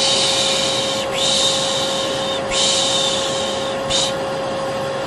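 Vacuum cleaner running steadily with a constant hum, overlaid by a person's repeated 'shh' shushing, long hushes following one another about every second or so, as a sleep sound for babies.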